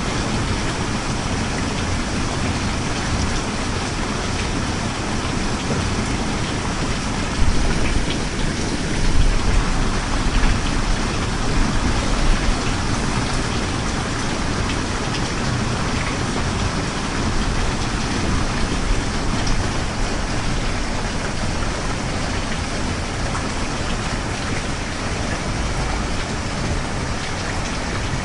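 Steady rain falling, with a deep low rumble beneath it and a few brief louder swells about a third of the way in.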